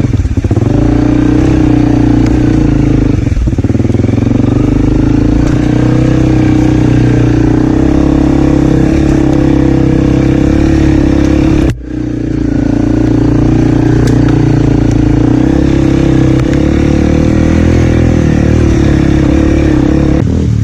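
Enduro dirt bike engine running steadily while being ridden, with a short break in the sound about twelve seconds in.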